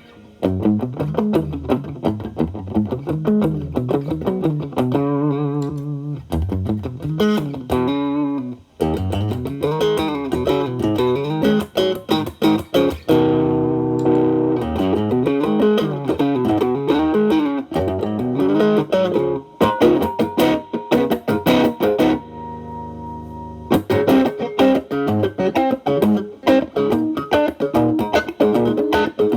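Telecaster with alnico single-coil pickups played through an MXR Distortion+ stacked with a Boss SD-1 into a Marshall Valvestate clean channel, the guitar's volume rolled back to clean up the overdrive. Improvised single-note blues lead with string bends and vibrato, and a couple of long sustained notes.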